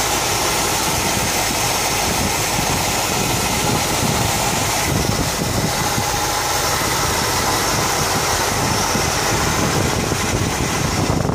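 Rebuilt Cadillac V8 engine of a Fleetwood limousine idling steadily under the open hood. It runs smoothly, with no knocks or odd noises, which the owner takes as a sign of a healthy engine.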